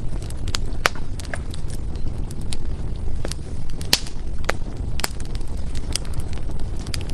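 Wood fire crackling and popping in a fireplace: irregular sharp snaps of burning firewood over a steady low rumble of the flames, with louder pops about one, four and five seconds in.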